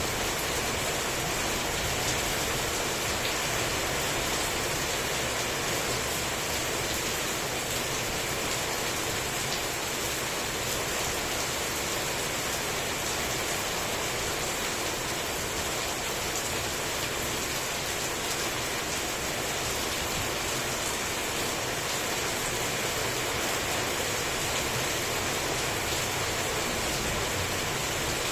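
Heavy rain falling steadily, an even dense hiss with occasional faint drop ticks. No thunder clap stands out.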